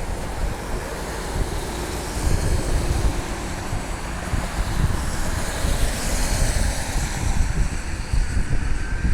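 Wind buffeting the microphone in gusts, a heavy low rumble under a steady rushing hiss.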